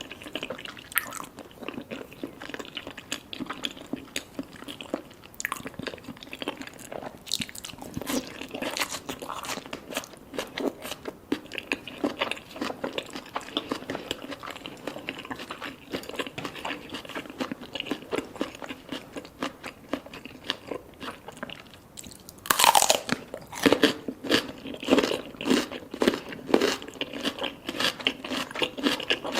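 Close-miked eating: steady chewing and biting with crisp little crunches and pops, from a mouthful of salmon sashimi with red tobiko and sea grapes. About three-quarters through comes a brief louder sound that falls in pitch, after which the bites grow louder and more distinct.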